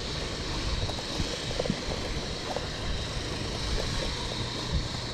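Steady wind and water noise on a small fishing boat: a rumble of wind on the microphone and water slapping the hull, with a faint steady high whine and scattered small knocks.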